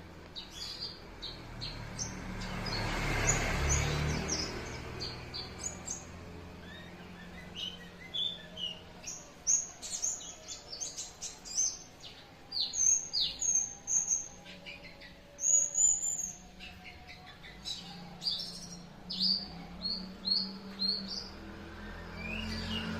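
Young white-eye (pleci) calling in quick runs of short, high chirps and trills. A swell of hiss comes a few seconds in, and a low steady hum runs underneath.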